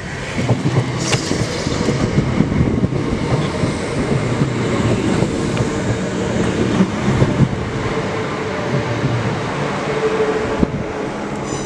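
Northern Class 319 electric multiple unit running past close by, its wheels rumbling and rattling on the rails as the carriages go by.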